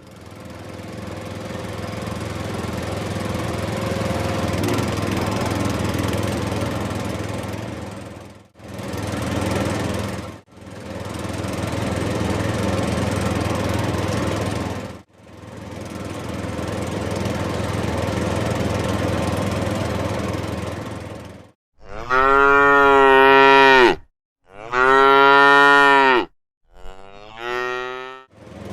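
An engine running steadily in four stretches that fade in and out, then a cow mooing three times near the end, the first two calls long and loud, the last shorter with a falling pitch.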